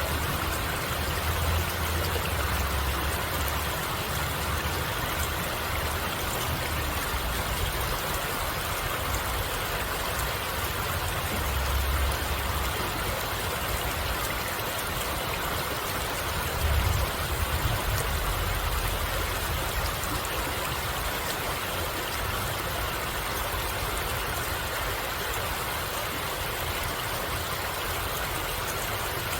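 Stream water flowing steadily, with a few low rumbles now and then.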